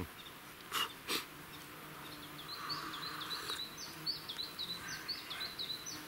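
Small songbird singing a rapid, steady run of short high chirps, starting about two and a half seconds in. Two short clicks a third of a second apart come about a second in.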